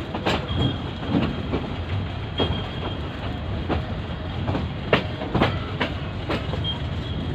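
Metre-gauge passenger train running slowly as it pulls into a station: a steady rumble with irregular sharp clacks of the wheels over rail joints, and a faint thin squeal now and then.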